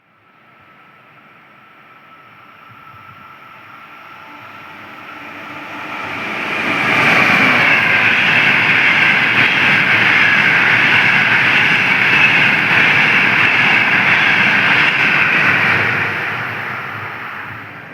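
A train passing through a station at speed: it grows steadily louder for about seven seconds as it approaches, goes by loudly for about nine seconds, then starts to fade as it moves away.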